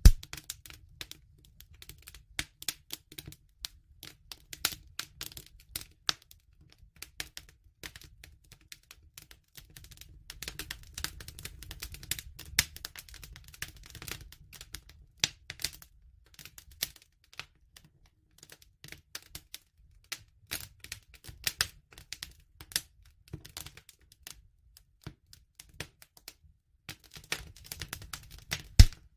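Bonfire crackling: burning wood snapping and popping in irregular clicks over a low rumble of the flames, with a sharp loud pop at the start and another near the end.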